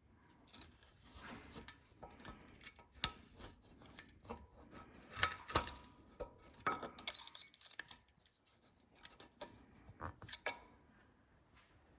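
Pick and side cutters clicking, tapping and scraping against a rusted cotter pin in a ball joint's castellated nut. The clicks are irregular and sharp, some with a short metallic ring, with a cluster of louder ones about five to six seconds in.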